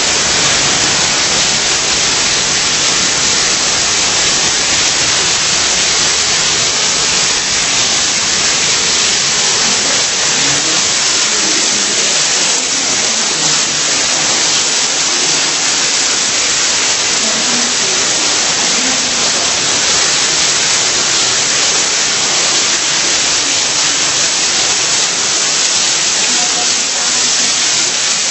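Steady, loud rush of falling water, the even hiss of a waterfall or cascading stream in a gorge.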